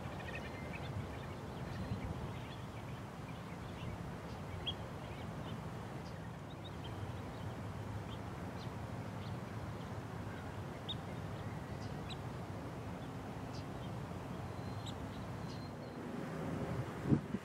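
Wetland birds calling: scattered short, high chirps and calls over a steady low rumble, with one sudden thump near the end.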